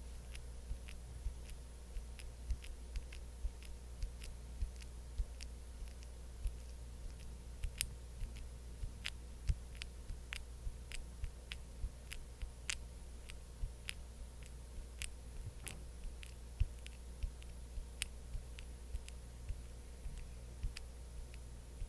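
Close-miked skincare ASMR trigger sounds: irregular soft sticky clicks and taps, about one or two a second, over a steady low hum.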